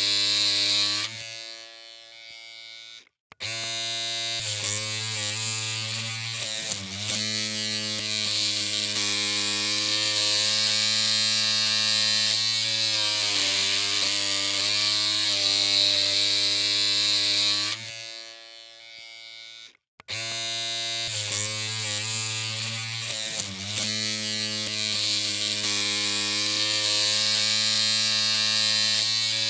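Electric hair clippers humming steadily with a buzzy hiss. Twice, the hum fades over about two seconds, cuts out briefly and starts again, its pitch wavering for a few seconds after each restart.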